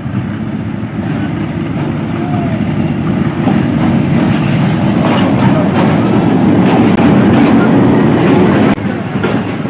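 Diesel locomotive and its passenger coaches running past along the platform: a low rumble that grows louder as the engine draws level, with the coach wheels clicking over the rail joints, dropping off suddenly near the end.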